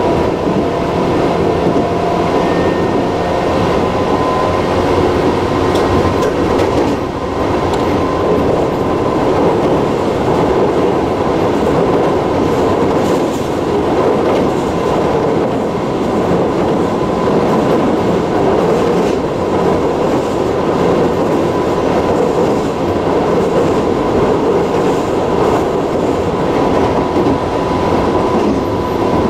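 Running noise of a Tobu Railway electric train heard from inside the carriage at speed: a steady rumble of wheels on the rails, with a thin steady high note over it.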